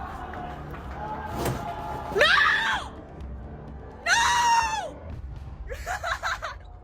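Three high-pitched screams, each rising then falling in pitch, over steady background music.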